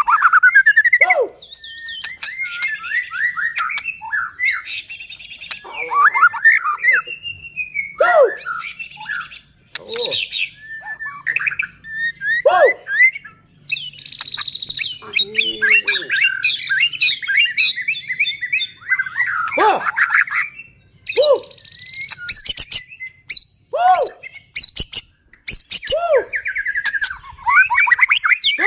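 White-rumped shama (murai batu) singing loudly and continuously: a varied string of rich whistles, swooping rising-and-falling notes and fast high trills, mixed with bursts of harsh clicking chatter. This is the full, aggressive song that keepers play to provoke other shamas into singing.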